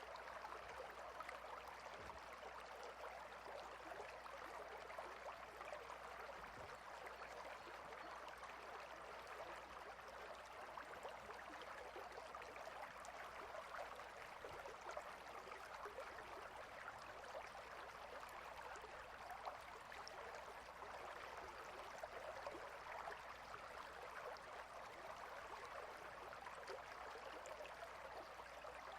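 Clear river water flowing steadily over and between rocks, a faint, even rushing with a fine babbling texture.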